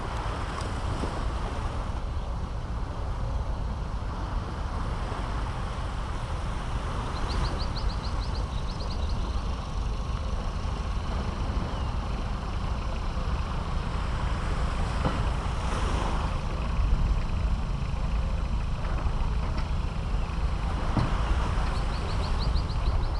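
Caribbean Sea surf washing steadily onto a beach, swelling and easing every few seconds, under a low wind rumble on the microphone. Twice a short rapid chattering rises above it, once about a third of the way in and again near the end.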